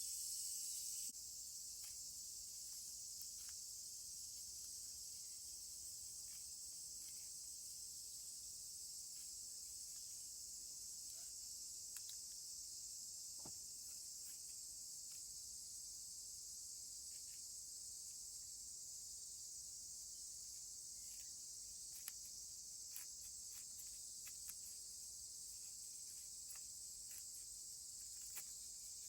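Steady, high-pitched chorus of summer insects, faint, with a few scattered soft clicks.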